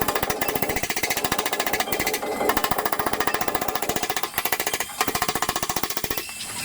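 A power hammering tool striking car body sheet metal in a rapid, steady train of many strokes a second, breaking off briefly twice and easing near the end.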